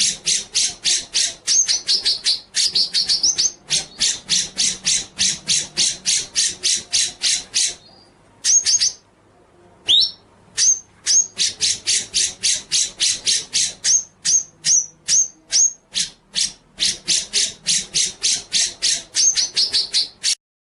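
Songbird singing a rapid-fire string of sharp, high notes, about five a second, mixed with short rising whistles. There is a brief break about eight seconds in, and the song cuts off abruptly near the end.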